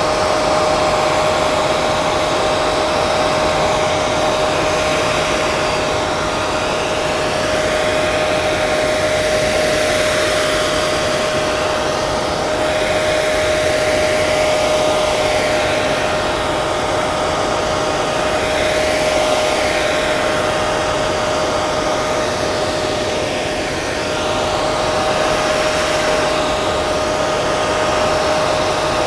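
Hair dryer running continuously: a steady rush of blown air with a constant motor whine, its airy hiss shifting slightly now and then as the airflow changes.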